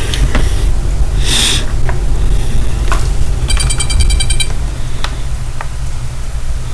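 Steady low rumble with scattered clicks and rustles of handling, and about a second of rapid, high electronic beeping near the middle.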